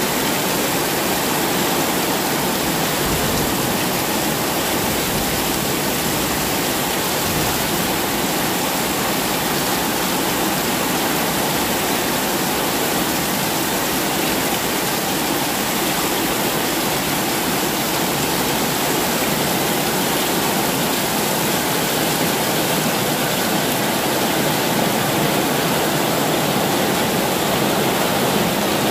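Heavy rain pouring down steadily on roofs and a paved alley, with water streaming off the roof edges: a loud, even, unbroken rush.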